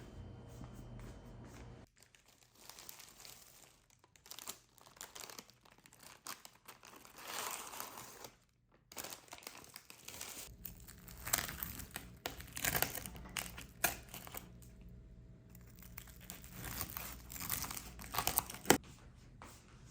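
Packaging crinkling and being torn in irregular short bursts, with scattered light knocks and one sharp click near the end.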